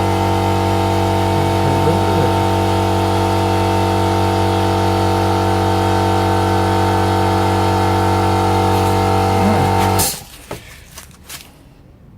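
Electric piston air compressor running steadily with a loud motor-and-pump hum, then cutting off suddenly about ten seconds in. A few light clicks and knocks of handling follow in the quiet.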